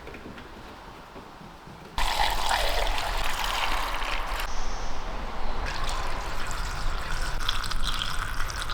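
Petrol being poured steadily into a car's fuel tank, starting abruptly about two seconds in.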